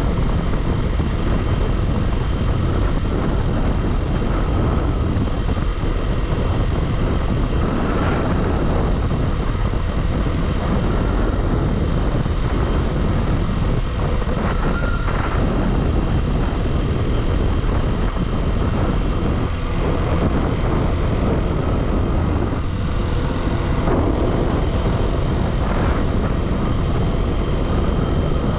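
Motorcycle ridden at speed: steady heavy wind rush on the microphone over the bike's engine and road noise, with a couple of faint brief tones about eight and fifteen seconds in.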